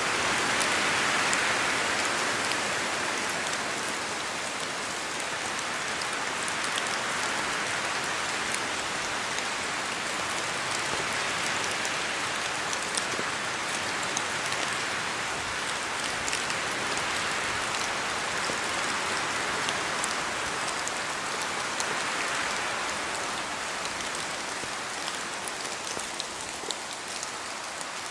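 Steady rain in a forest, with single drops falling from the trees as sharp little ticks over a constant hiss. A broader rush swells and eases every few seconds as wind moves through, and it fades slightly near the end.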